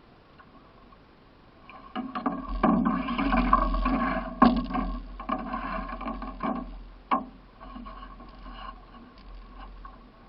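Scraping and rubbing against the hull of a racing canoe, with a few sharp knocks, about two seconds in, midway and around seven seconds, then dying down.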